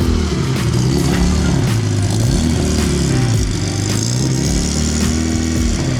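A car engine running, its pitch rising and falling again and again as it is revved.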